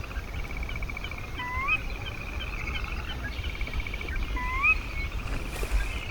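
Backyard birds calling: a steady, fast, high trill runs throughout, with a few short chips and two rising slurred whistles about three seconds apart. A low rumble sits underneath.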